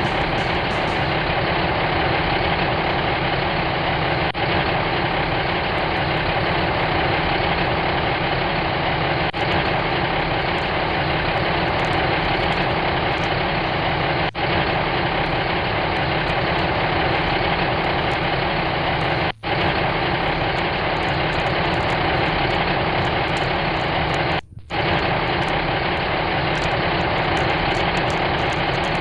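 Steady idling engine sound, with short gaps about every five seconds.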